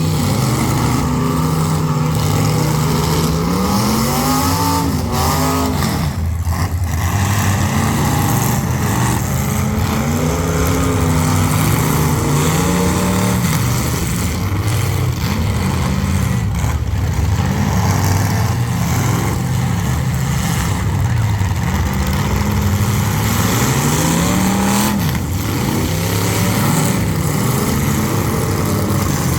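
Engines of full-size demolition derby cars revving up and down over and over, with a few short bangs of impacts mixed in.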